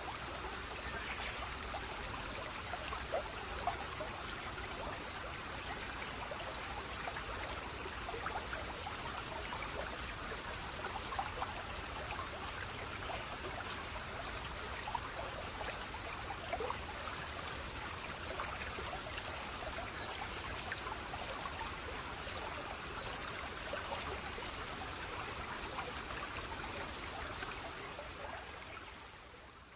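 Running water flowing steadily with many small splashes, fading out over the last couple of seconds.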